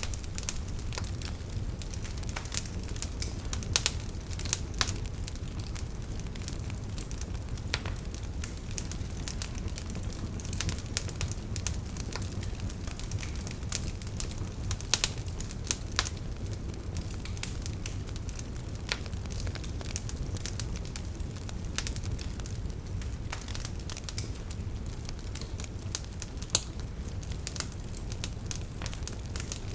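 Campfire burning: burning firewood crackling and popping in irregular sharp snaps over a steady low rumble of flames, with a few louder pops here and there.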